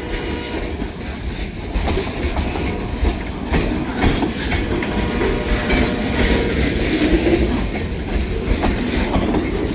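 Freight train cars rolling past close by, a steady rumble with wheels clicking irregularly over the rail joints.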